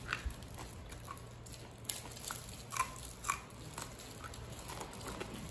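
Chewing and crunching on deep-fried scorpionfish, fried twice so that its head bones are crisp enough to eat, with a few short, sharp crunches standing out near the middle.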